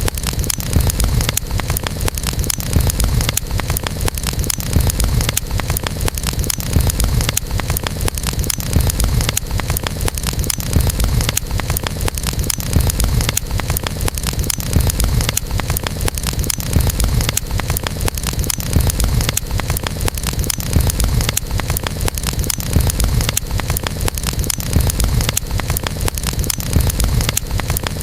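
Wood campfire crackling steadily, a dense run of small pops and snaps over a low rumble.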